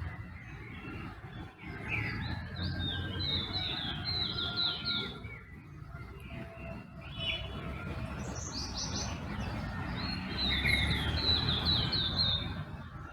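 Dawn chorus of songbirds chirping: two runs of quick, repeated high down-slurred notes, one in the first half and another near the end, with scattered other calls between, over a low steady rumble.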